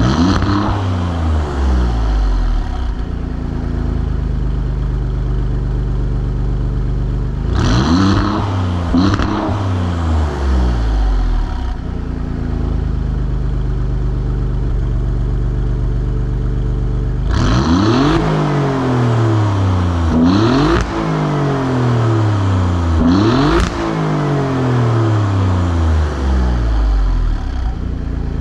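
2018 Alfa Romeo Giulia Quadrifoglio's twin-turbo V6 on its stock exhaust, idling and being blipped: a rev at the start, two quick revs about eight seconds in, and three more in the second half. Each time the engine climbs sharply and then falls slowly back to idle.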